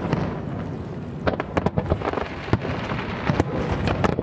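Fireworks display: a continuous low rumble of shell bursts, broken by many sharp cracks.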